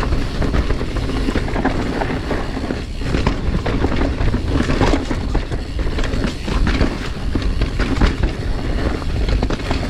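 Mountain bike rolling over a rough dirt trail: tyre noise with steady rattling and knocking from the bike over the bumps.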